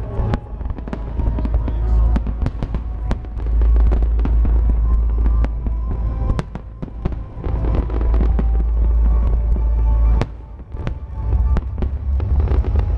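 Fireworks display: aerial shells bursting in quick succession, many sharp bangs and crackles over a deep continuous rumble. The booming eases briefly about ten seconds in, then picks up again.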